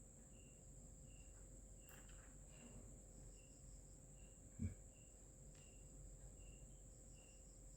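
Near silence with faint insect chirping: short, evenly spaced high chirps about three every two seconds, over a steady high hiss. A brief soft low thump comes about four and a half seconds in.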